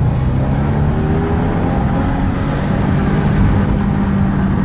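2015 Subaru WRX's turbocharged flat-four engine running as the car drives, heard from inside the cabin as a steady drone over road and tyre rumble.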